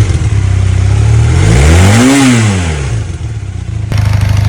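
Honda CB400 Hawk's parallel-twin engine running and blipped once, revving up and falling back about two seconds in. Near the end it idles steadily.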